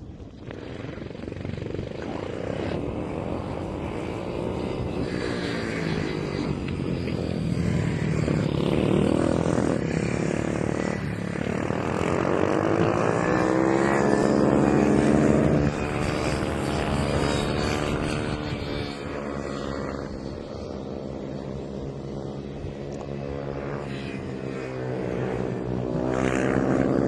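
110cc mini motorcycle engines revving hard. Their pitch repeatedly climbs and drops as the bikes accelerate and shift through the gears. The engines grow louder over the first fifteen seconds, fall away suddenly, and swell again near the end.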